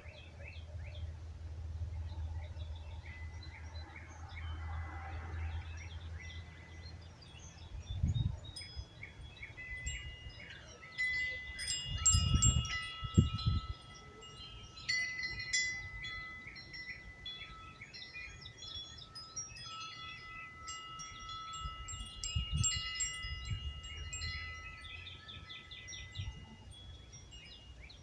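Wind chimes ringing as the wind moves them: a few scattered notes at first, then a busy jangle of overlapping strikes from about ten seconds in, several pitches hanging on and ringing out together. Wind gusts rumble and thump on the microphone, loudest about twelve seconds in.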